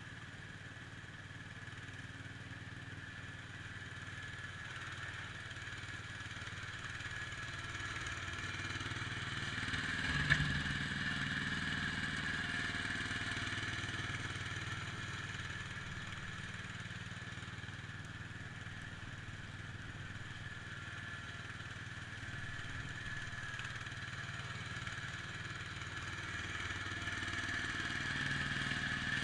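IH Cub Cadet 147 garden tractor's single-cylinder engine running steadily while plowing snow, swelling louder twice and easing back between. One sharp knock about ten seconds in.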